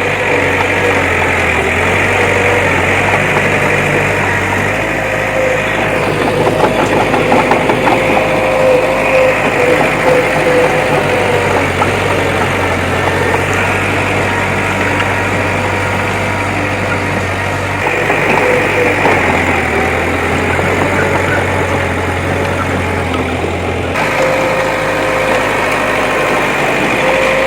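Diesel engine of heavy earthmoving machinery running steadily, its note shifting several times as the load or revs change.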